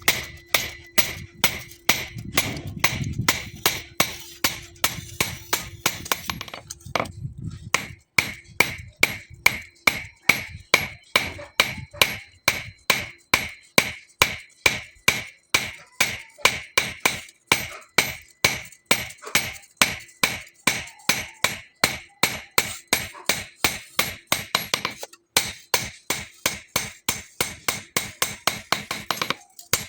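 Hand hammer striking steel from a bearing ring on an anvil, forging it into a knife blade: a steady run of ringing blows, about three a second, with two brief pauses.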